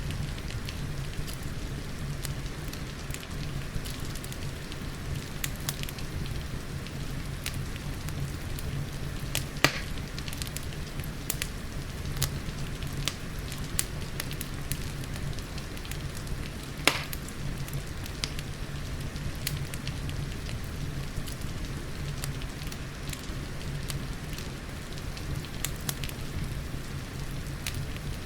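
Wood fire crackling with scattered sharp pops, two louder ones about 10 and 17 seconds in, over a steady hiss of rain.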